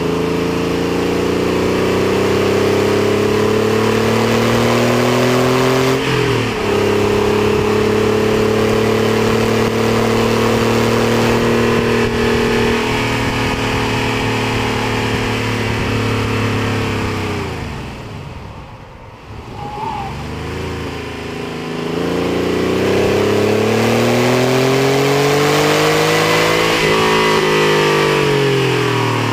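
Porsche 964's air-cooled flat-six engine pulling hard on track. Its revs climb, with a quick upshift about six seconds in. A little past the middle the revs fall away and the sound drops briefly, then the engine climbs through the revs again with another shift near the end. A steady rush of wind over the door-mounted camera runs underneath.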